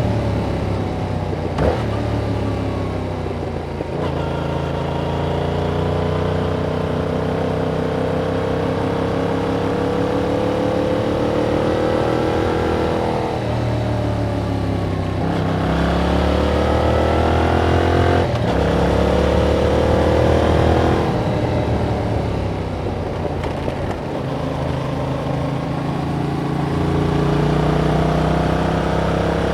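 2021 Yamaha MT-07's parallel-twin engine through its stock exhaust, under way. The pitch climbs slowly for several seconds, drops suddenly about 13 seconds in, and then rises and falls several more times as the revs change.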